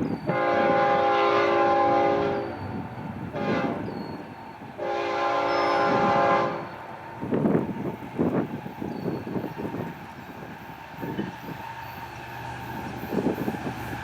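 Freight locomotive's air horn sounding a chord of several steady notes: a long blast, a short one, then another long one. The rumble and clatter of the train's wheels on the rails follow, with scattered knocks.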